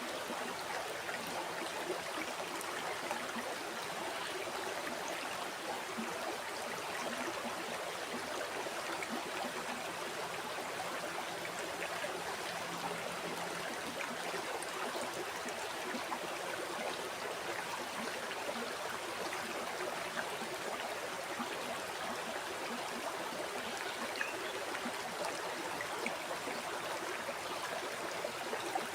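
River water flowing steadily over stones, a continuous rushing babble with small splashes and trickles.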